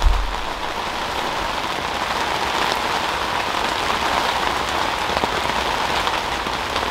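Heavy rain falling steadily on a tent shelter's fabric and clear urethane windows, heard from inside the shelter. A short low thump right at the start.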